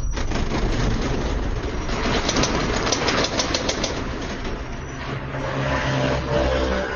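Loud, steady rumble with a spell of rattling and clattering about two to three and a half seconds in, cutting off suddenly at the end: the shaking of an earthquake.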